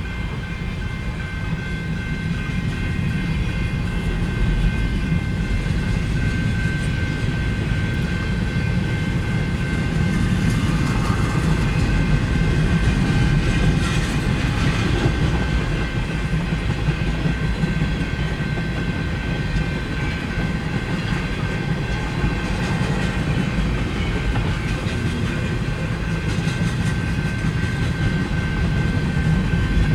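Freight cars of a manifest train rolling past in a steady rumble, with wheels clattering over the rail joints and a faint steady high tone above, heard from inside a van.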